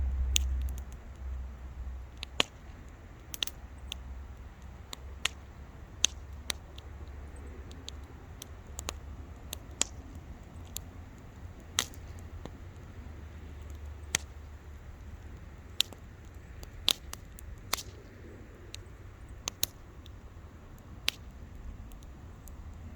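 Wood bonfire crackling: irregular sharp pops and snaps, about one or two a second, over a low rumble that is strongest at the start.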